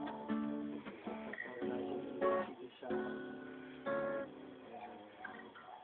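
Acoustic guitar being strummed, chord after chord with uneven strokes.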